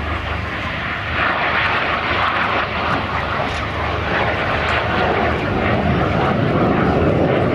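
Jet noise from a BAC Strike Master's single turbojet engine as the aircraft flies its display. The rushing sound swells about a second in and deepens toward the end.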